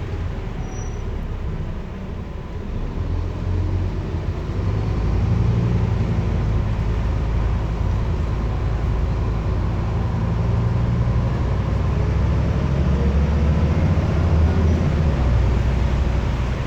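Scania N230UD double-decker bus's nine-litre five-cylinder diesel engine pulling hard under acceleration. It grows louder a few seconds in and then stays loud, with the engine note rising in pitch.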